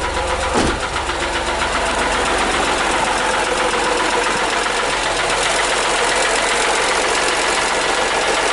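Hyundai Matrix 1.5 CRDI three-cylinder diesel idling just after its first start, with a steady fast metallic clatter. The clatter comes from newly fitted hydraulic lifters not yet filled with oil; the lifters still have to be bled.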